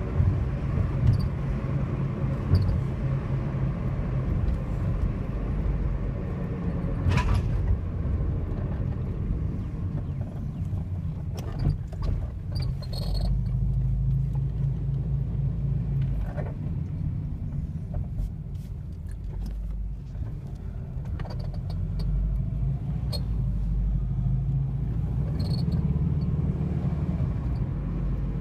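A car engine running steadily with a low rumble, with scattered short clicks and knocks over it.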